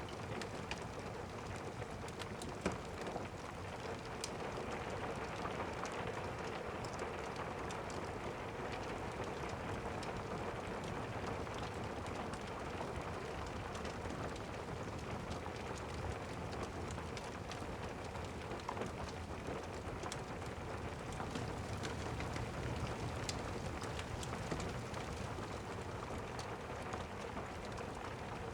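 Steady rain ambience, a dense even patter, with scattered small clicks and pops through it and one sharper pop about three seconds in.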